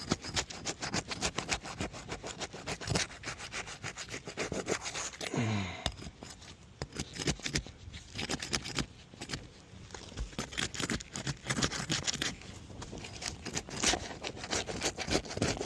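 Asphalt shingles being pried and unsealed with a hand tool: a steady run of irregular scraping and tearing strokes as the tool works under the sealed tabs. The tearing is the shingle mat pulling apart at the sealant (mat transfer), the sign that the roof fails the repairability test.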